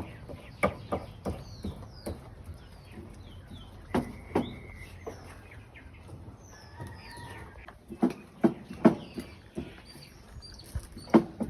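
Birds chirping throughout with a few longer held calls, over sharp knocks and clatter that come in clusters, with several in quick succession about eight seconds in and near the end.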